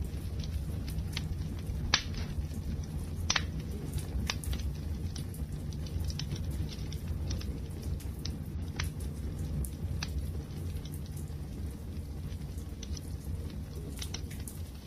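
Wood fire burning: a steady low rumble of flames with sharp crackles and pops at irregular moments, a few louder pops among them.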